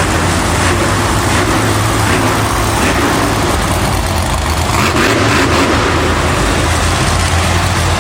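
Monster truck's supercharged V8 engine running and revving, loud and steady.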